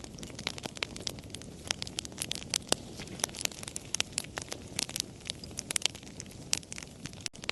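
Wood fire crackling: frequent sharp, irregular pops and snaps over a low, steady rush of flame. The sound drops out for an instant near the end.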